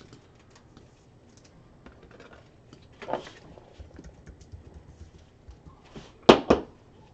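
Trading cards and their plastic holders being handled on a table: faint rustles and small clicks, a short scrape about three seconds in, then two sharp clacks close together near the end.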